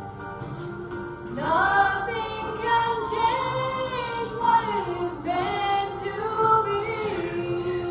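A woman singing a slow country ballad live over steady backing accompaniment. Her voice enters about a second and a half in with long held notes that slide between pitches.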